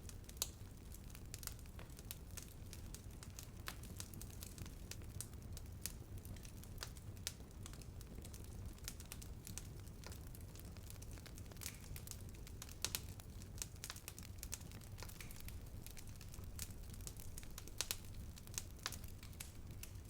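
Wood fire burning: a steady low rumble under frequent irregular crackles and pops, with a few louder snaps scattered through.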